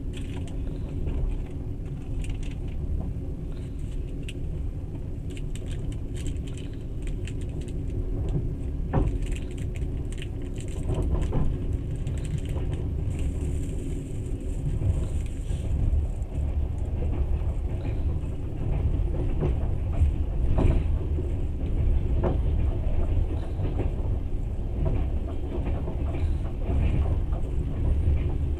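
Moving passenger train heard from inside the carriage: a steady low rumble of wheels on the track, with scattered sharp knocks.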